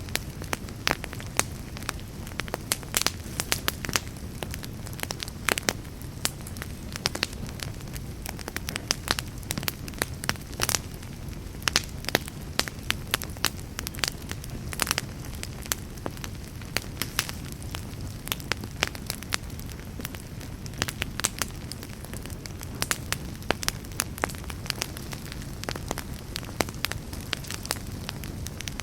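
Fireplace fire crackling, with frequent irregular sharp pops over a steady low rumble of flames.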